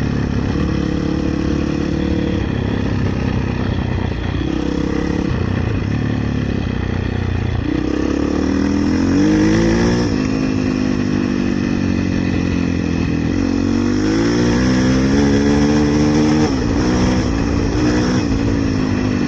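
450cc dirt bike engine running under throttle, its revs rising and falling. The pitch climbs twice, about ten and sixteen seconds in, and each time drops sharply.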